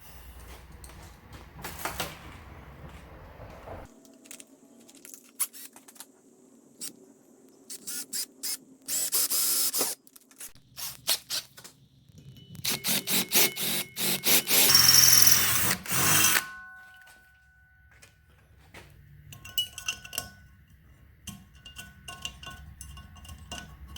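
Power drill boring a hole through an aluminum bracket plate, with a short burst and then a longer run of a few seconds near the middle. Clicks and clatter of handling the bit and the work come between the bursts.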